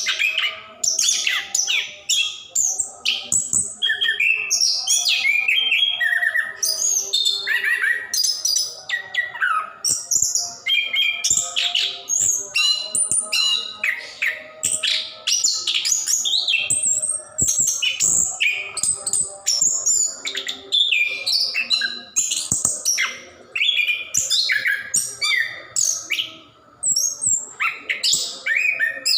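Orange-headed thrush (anis kembang) singing non-stop: a rapid, unbroken stream of varied high chirps and whistled phrases, changing from note to note with hardly a pause.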